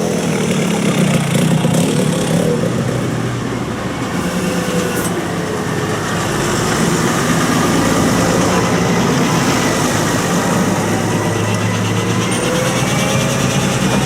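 Tractor engines running steadily, with a low engine note that shifts a little in pitch partway through.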